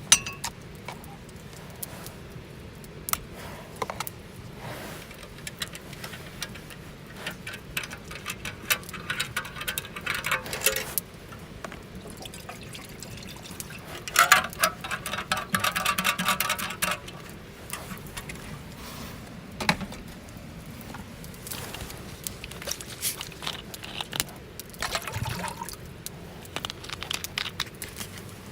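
Wood campfire crackling with scattered sharp pops. Two longer stretches of hissing and sputtering come about a third of the way in and again around the middle.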